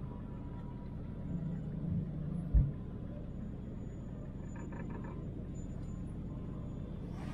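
Low, steady engine and road rumble of a 1968 Chevelle Nomad station wagon driving slowly. It swells a little about a second and a half in, and a single sharp thump about two and a half seconds in is the loudest sound.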